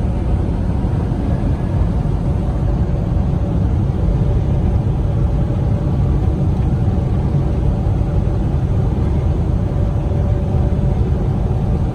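Steady engine drone and road noise inside the cab of a 2021 Freightliner Cascadia semi-truck driving along a highway.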